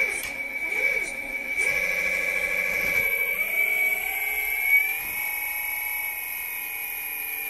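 Hydraulic pump of a 1/14-scale RC excavator whining steadily as the cylinders are worked, with the pitch of the lower hum shifting as the load changes and rising partway through before holding steady. The pump is being run after a hydraulic oil change to cycle the cylinders and push out air.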